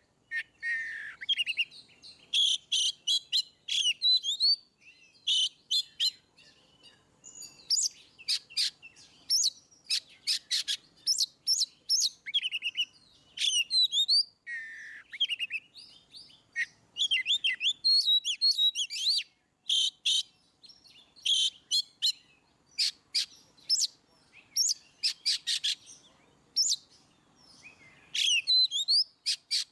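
Oriental magpie-robin (kacer) singing a varied song of clear whistled and slurred notes mixed with rapid chipping runs, phrase after phrase with short pauses between.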